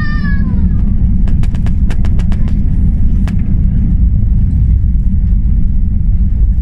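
Steady, loud, low rumble of an Airbus A321's engines and airframe heard from inside the passenger cabin while the aircraft is moving. A quick run of about six sharp clicks comes between one and three seconds in.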